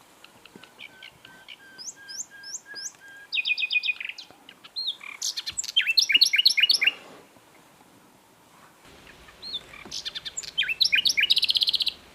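Common nightingale singing in separate phrases: soft high notes, fast rattling trills and loud rapid sweeping notes, with a pause of about two seconds before a final phrase that ends in a fast trill.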